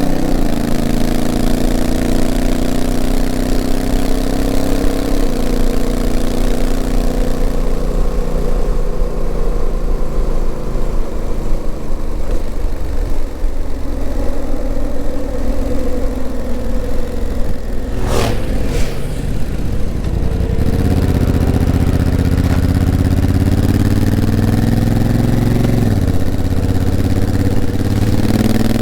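Honda CRF1000L Africa Twin's parallel-twin engine heard from on board while riding, its pitch rising under acceleration and dropping in steps at the dual-clutch gearbox's shifts. It runs lighter with less pull through the middle, with two sharp clicks about two-thirds through, then pulls harder again, with another shift near the end.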